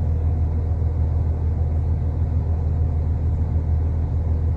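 Steady low rumble of an Irish Rail diesel commuter train, heard from inside the carriage, with a faint steady hum above it.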